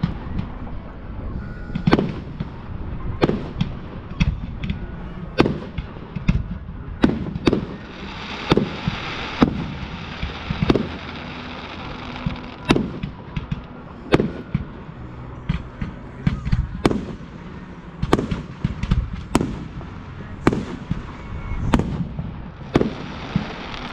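Display fireworks going off in quick succession: a string of sharp bangs from bursting shells and mortar launches, about one a second. A hissing crackle runs under them from about 8 to 12 seconds in and again near the end.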